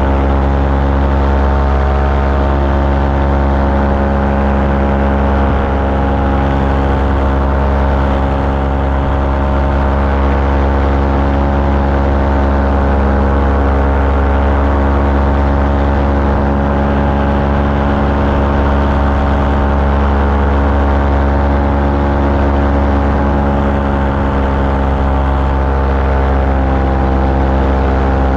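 Small aircraft engine running steadily at cruise power, heard from on board in flight.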